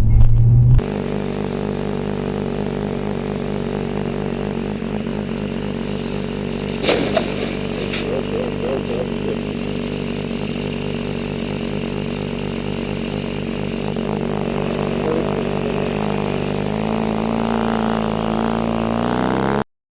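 A vehicle engine running steadily. There is a short clatter about seven seconds in, and the pitch rises over the last few seconds as it accelerates, before the sound cuts off suddenly.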